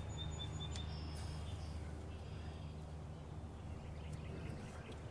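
A bird chirping in a quick run of short high notes during the first second, over a steady low hum; a single sharp click comes just under a second in.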